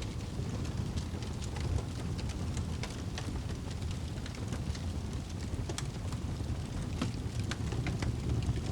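Wood fire crackling: a steady low rumble of burning with frequent sharp, irregular pops and crackles.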